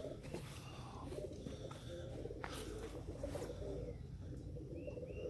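Domestic pigeons cooing, a low warbling that carries on throughout, with a couple of brief high chirps near the end.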